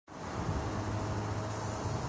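Steady low engine rumble of aircraft towing on an airport apron, with a brief swell of hiss about one and a half seconds in.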